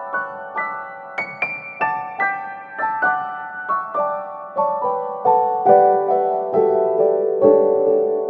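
Background piano music: single notes struck one after another at a gentle pace, each ringing and fading.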